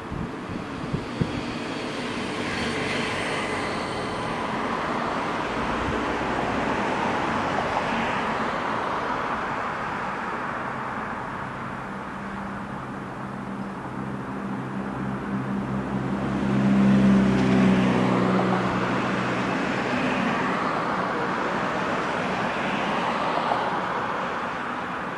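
Road traffic going by: a continuous wash of tyre and engine noise that swells and fades as vehicles pass. One passing vehicle's engine hum builds to the loudest point about two-thirds of the way through, then fades.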